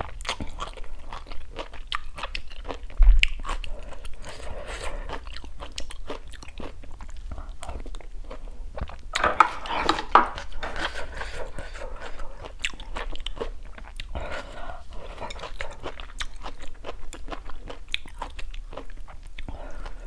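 Close-miked eating sounds: a person chewing a crunchy mouthful of bean sprouts and sour-soup vegetables, with many wet mouth clicks and smacks. A low thump comes about three seconds in.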